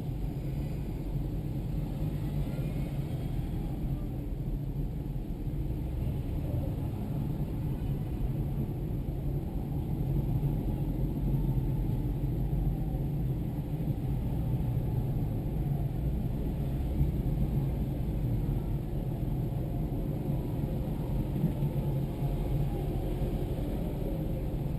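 Diesel tractor engine running steadily under way, a constant low rumble.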